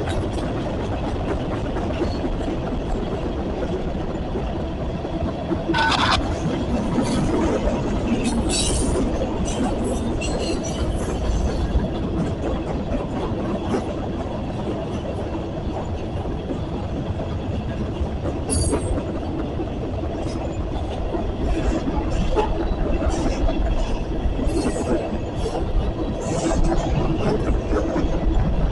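Freight train cars rolling past on the rails: a steady rumble with clacking from the wheels and a few short high-pitched metallic squeals now and then.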